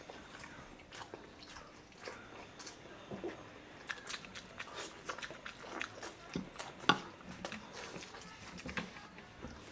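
Eating sounds: biting and chewing braised rabbit adobo, with scattered mouth clicks and smacks that thicken from about four seconds in, and one sharper smack around seven seconds.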